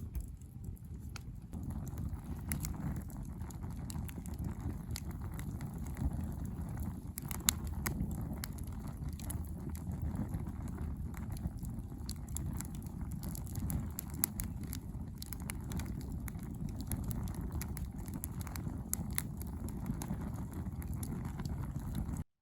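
Wood campfire burning, with scattered sharp crackles and pops over a steady low rumble; it cuts off abruptly near the end.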